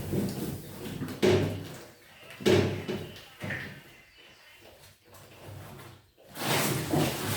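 Refrigerator drawers and door being handled: a few sudden plastic knocks and slides, then busier clattering near the end.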